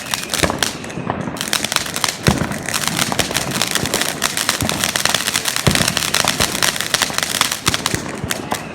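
Fireworks going off all around: a dense, continuous crackle of rapid pops, with a few heavier bangs about two and six seconds in.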